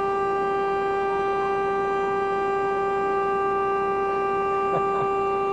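A vehicle horn held down continuously, one steady unchanging pitch.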